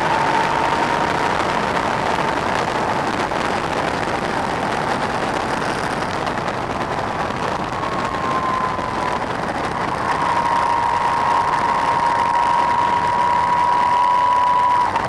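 Yamaha MT-09's three-cylinder engine running at steady cruising revs under a strong rush of riding wind. The engine note holds steady, easing briefly about nine seconds in before holding again.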